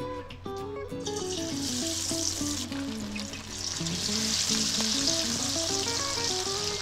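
Chicken pieces coated in spice paste deep-frying in hot oil with curry leaves: a steady, dense sizzle of bubbling oil that starts about a second in. Plucked background music plays underneath.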